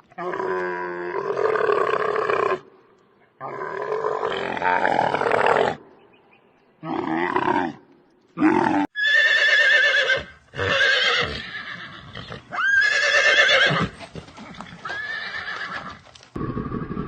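Horses neighing and whinnying: a series of about seven separate calls with short gaps between them, the later ones high and quavering.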